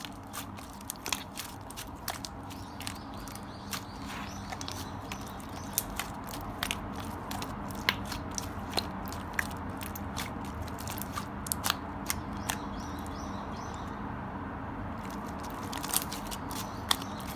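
Clear jelly-textured slime being pressed, stretched and squished by hand, giving many crisp, irregular clicks and pops.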